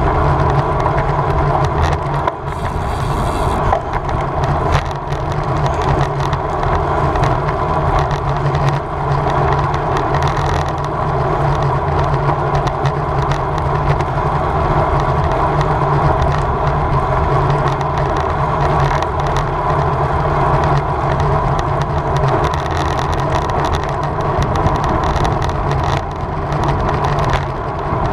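Wind rushing over the microphone and tyre and road noise from a road bike ridden at race speed, steady throughout with small knocks and rattles from the road surface.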